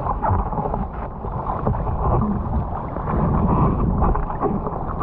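Rushing, sloshing sea water with wind buffeting a GoPro's microphone, a steady churning noise with no clear single events.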